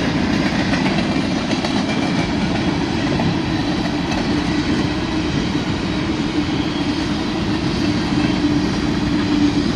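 Covered hopper cars of a long freight train rolling past: a steady, loud noise of steel wheels running on the rails.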